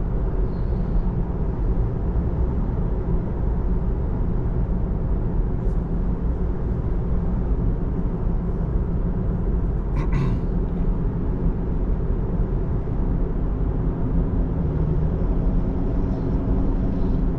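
Steady road and tyre noise heard inside the cabin of a 2024 Tesla Model 3 travelling at freeway speed, with a short click about ten seconds in.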